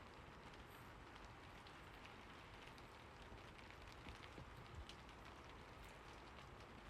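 Faint steady rain: a soft even hiss with scattered individual drop ticks.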